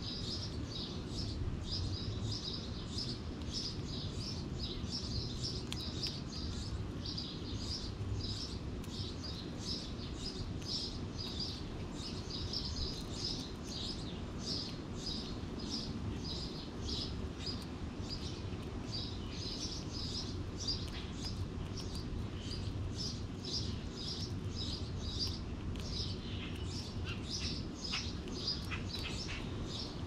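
Small birds chirping continuously, many short high chirps a second, over a steady low background rumble.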